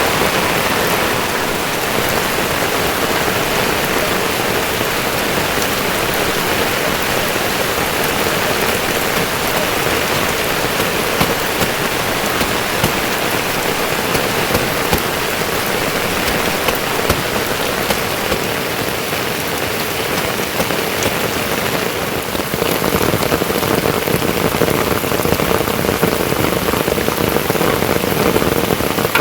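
Steady rain falling, with single drops ticking now and then; it gets a little louder about three-quarters of the way through.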